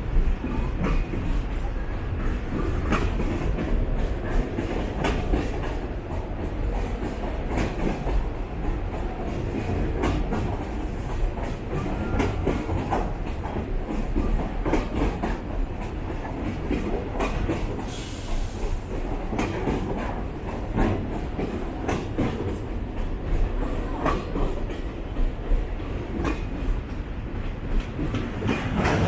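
Freight train of container wagons rolling through a level crossing, its wheels clacking over the rail joints in an irregular run of sharp clicks over a steady low rumble. A brief hiss comes about two-thirds of the way through.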